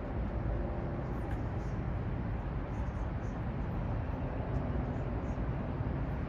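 Steady outdoor city ambience: an even low rumble of traffic, with no single event standing out.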